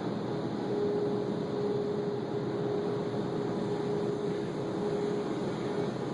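Automatic car wash equipment running: a steady rushing noise with a steady hum underneath.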